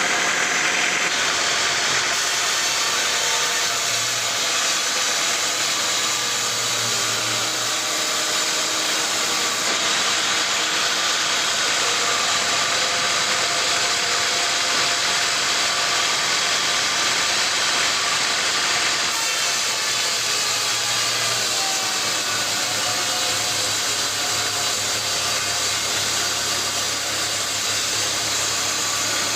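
Sawmill machinery running steadily, a loud even noise with a faint hum underneath.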